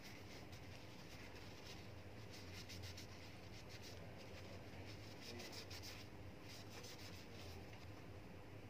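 Small model Stirling engine running, its moving parts making a faint, fast, uneven clicking over a low hum.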